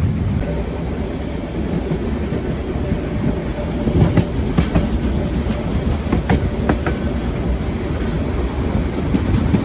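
Narrow-gauge Harz steam train running on the rails: a steady low rumble with wheels clacking, and a few sharp clicks and brief metallic squeals between about four and seven seconds in.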